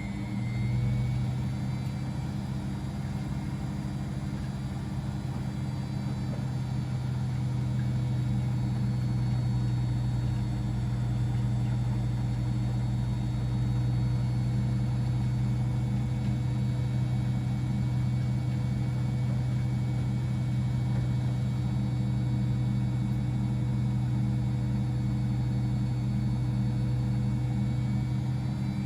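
Laundry machines running: a steady low motor hum that swells up about half a second in and then holds even.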